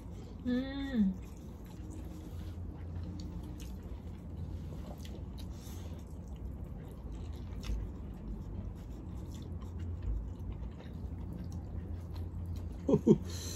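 People chewing mouthfuls of chicken biryani eaten by hand: soft mouth sounds and many small faint clicks, over a steady low hum. A short hummed "mm" with falling pitch comes about half a second in, and brief voice sounds come near the end.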